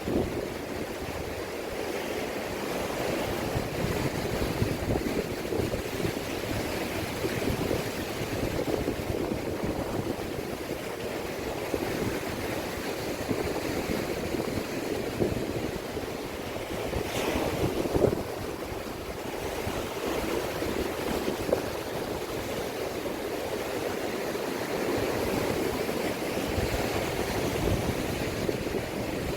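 Sea waves washing continuously against the rocky shore, with wind.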